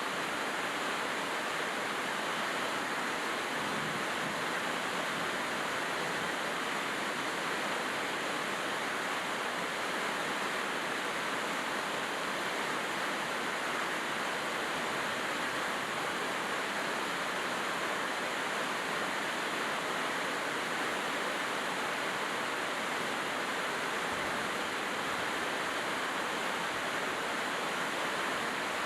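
Steady rain falling, a dense even hiss with no breaks or distinct drops.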